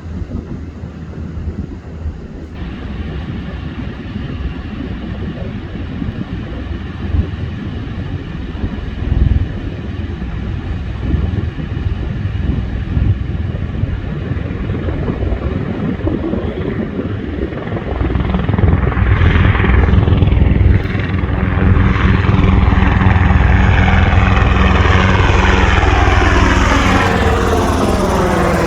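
Black Hawk helicopter flying low and approaching, its rotor and engine sound growing steadily louder. It is loudest over the last several seconds, with a swooshing sweep that falls in pitch as it passes close.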